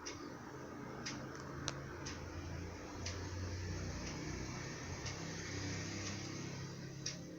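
Venti Delta New Delta Light ceiling fan running with a steady low motor hum and air noise. A sharp tick sounds about once a second throughout.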